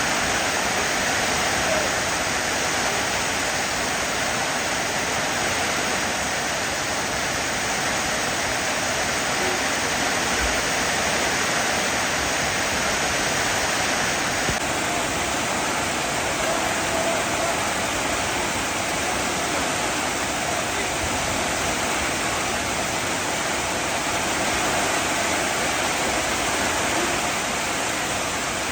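Heavy rain falling steadily, an even wash of noise with no engine or chainsaw running.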